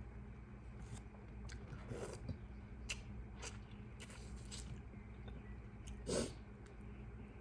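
Close-up eating sounds of a seafood boil: quiet chewing with scattered short clicks and smacks, and one louder mouth sound about six seconds in.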